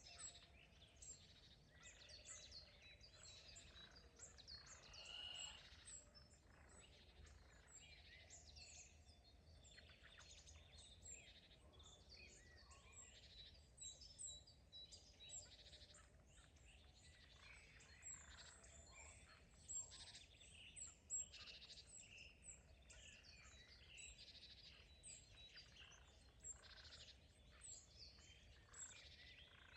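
Faint chorus of many songbirds chirping and singing, overlapping short calls and trills throughout, over a low steady background hum.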